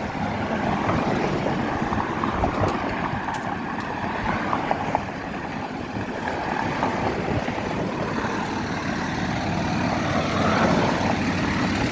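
Steady rumble of road traffic, with vehicle engines running.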